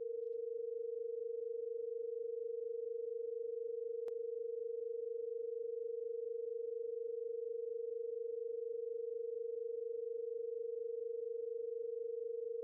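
Synthesised sine tones of the Harmonics of Nature tuning scale held steadily: the 460.8 Hz root B-flat with the minor-second B at about 485 Hz, heard as one pure tone near 470 Hz with an even pulsing in loudness. A faint click about four seconds in.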